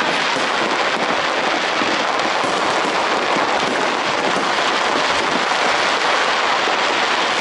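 Large aerial fireworks display in a continuous barrage: many shells bursting at once, with dense crackling and no break.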